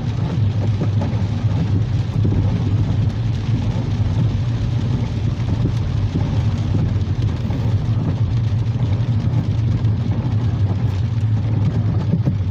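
Steady car driving noise heard from inside the cabin: a constant low engine and road drone under a continuous hiss of heavy rain and water spray against the car.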